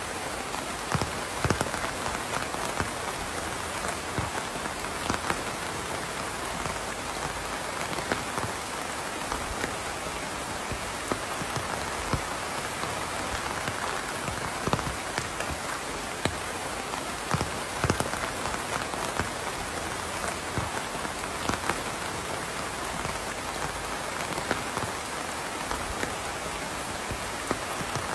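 Steady rain falling, with many scattered individual drops ticking sharply against a surface over the continuous hiss.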